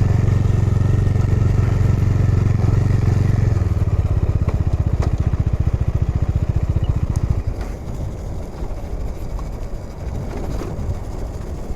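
Motorcycle engine running, a steady low drone that turns into a slower, even pulsing about a third of the way in, then drops away sharply about two-thirds through, leaving a quieter low rumble.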